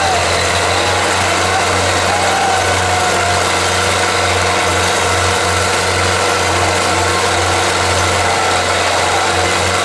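Belarus 510 tractor's diesel engine running steadily at an even speed.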